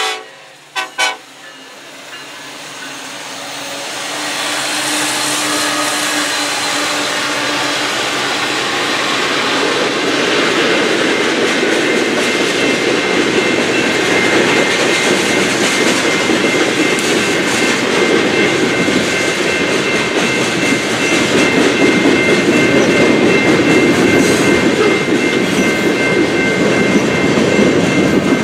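Freight train rolling past at a grade crossing: two sharp knocks about a second in, then the rumble and rattle of freight cars on the rails, building over the first few seconds and holding steady. Faint high steady tones ride over it from about twelve seconds in.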